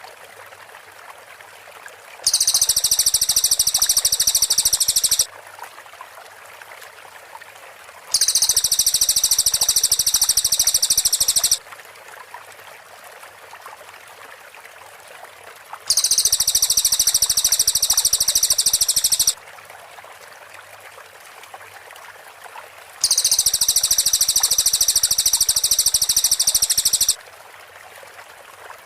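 Cililin songbird giving its rapid-fire 'tembakan' song: four bursts of fast, shrill, high-pitched repeated notes, each about three to four seconds long and several seconds apart. A steady faint hiss of background noise fills the gaps between bursts.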